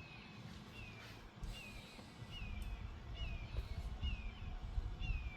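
A bird calling a short falling note over and over, about once a second, seven times. Under it, a low rumble that grows louder about a second and a half in.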